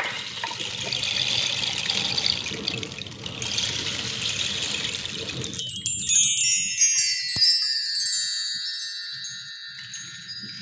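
Flowing water for about the first half, cut off as a cascade of small metal chimes rings in, bright tones stepping downward in pitch and ringing on.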